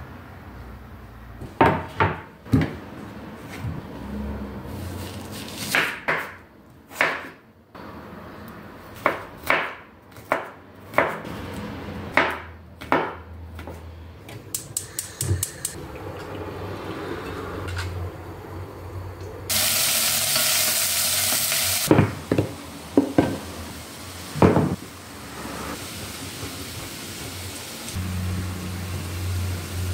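Kitchen clatter: dishes, pots and utensils knocking and clinking, with a loud hiss lasting about two seconds a little past the middle.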